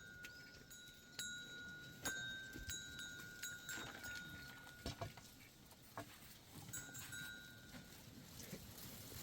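Livestock bells ringing and clinking: a held, ringing tone that dies away about three and a half seconds in and returns near the end, among scattered sharp clinks and knocks.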